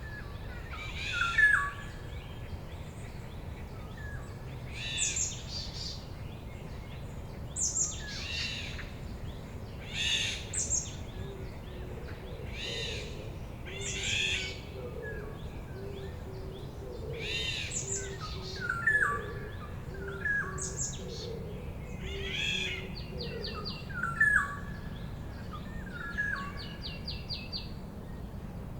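Several forest birds calling. Harsh, repeated calls come every second or two, a soft low series of notes runs through the middle, and a fast high trill comes near the end, over a steady low rumble.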